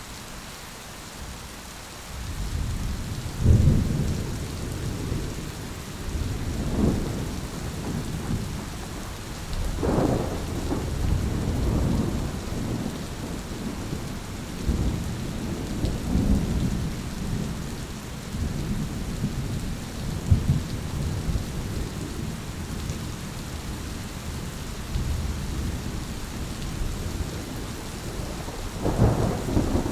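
Steady rain falling through a thunderstorm, with thunder beginning to rumble about two seconds in and rolling on for the rest of the stretch, swelling loudest near the start, around the middle and near the end.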